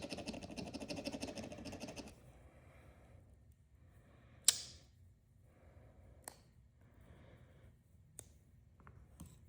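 Quick, rhythmic scrubbing on a pocketknife blade's nail nick for about two seconds. Then come short, quiet rubs broken by three sharp clicks, the first one the loudest.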